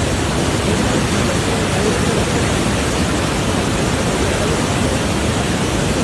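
Floodwater rushing steadily over a road, a loud, unbroken roar of water.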